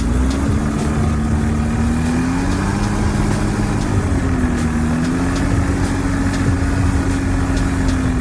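Small piston engine and propeller of an ultralight aircraft running steadily, the drone's pitch wavering gently up and down.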